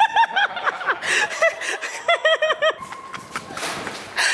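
High-pitched giggling in quick 'ha-ha-ha' runs, three bouts of short laughs about a fifth of a second apart.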